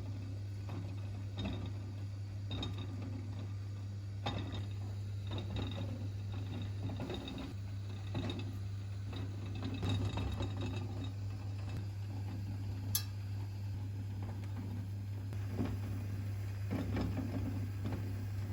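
Kitchen items being handled: scattered light clicks and knocks, with one sharp click about two-thirds of the way through, over a steady low hum.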